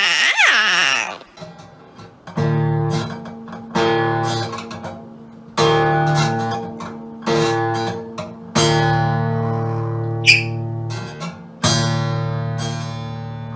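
Acoustic guitar strumming chords slowly, about six strums each left to ring out. A short falling pitched call comes at the very start.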